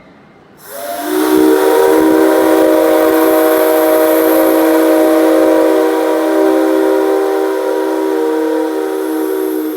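Five-chime whistle of steam locomotive C57 135, blown with compressed air instead of steam: one long blast of several notes sounding together as a chord, with an airy hiss. It starts about half a second in and eases off slightly over the last few seconds.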